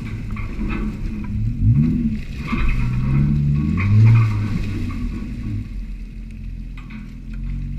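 Jeep Wrangler engine revving up and easing off while crawling a muddy trail: the pitch climbs twice, the loudest rev comes about four seconds in, and it settles back to a low run. Short knocks and rattles come through over the engine.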